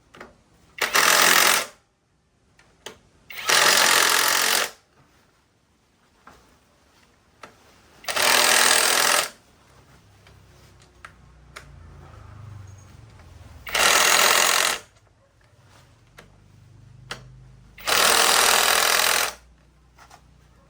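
A loud workshop tool running in five short bursts of about a second each, with small clicks and knocks between the bursts.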